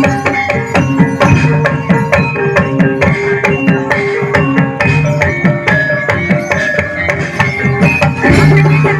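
Javanese gamelan music for a kuda kepang (ebeg) dance: hand-played kendang drum strokes over struck metal keyed tones, playing continuously at a lively pace.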